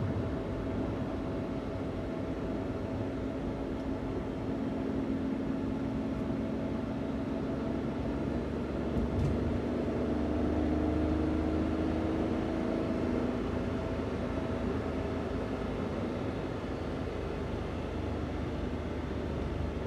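Daihatsu Hijet kei van with stock intake and exhaust driving along, its engine and road noise running steadily. About halfway through, the engine note rises a little and the low rumble grows as it picks up speed.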